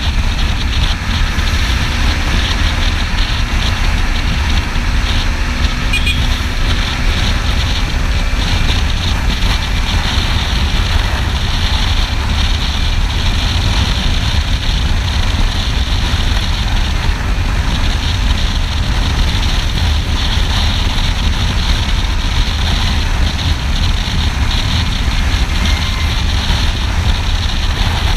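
Wind rushing over the camera microphone on a moving motorcycle, with a Kawasaki Ninja 300's parallel-twin engine running underneath at a steady pace. It is an even rumble with no revving changes.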